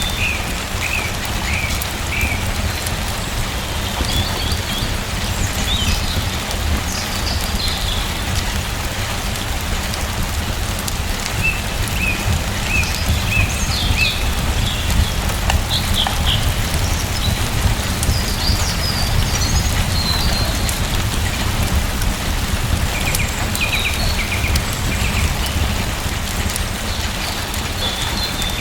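Steady rain falling, with small birds chirping in short bursts now and then through it.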